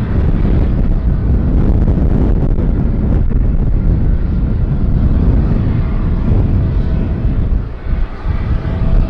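Jet airliner engines running with a loud, deep rumble, mixed with wind buffeting the microphone; a faint engine whine comes in during the second half.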